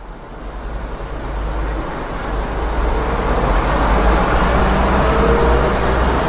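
City street traffic noise with a deep engine rumble, rising in level over the first few seconds and then holding steady.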